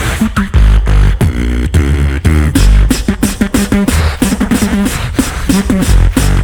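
Live beatboxing: deep bass kicks and sharp snare and hi-hat clicks in a fast, steady beat, with a pitched vocal bass line bending up and down over it.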